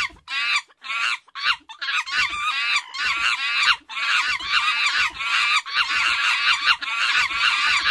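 A dense run of repeated bird calls in quick succession, beginning about a third of a second in and going on without a break.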